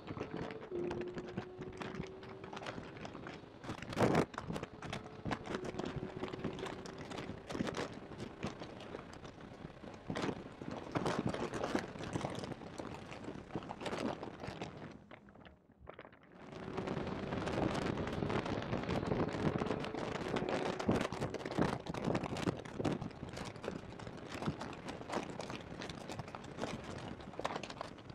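Porsche 991.2 GT3's naturally aspirated flat-six at full throttle, heard from inside the cabin through a badly placed microphone, so the sound is mostly heavy crackling and popping distortion with the engine note climbing faintly beneath. There is a loud knock about four seconds in, and the sound drops out briefly about halfway through before carrying on.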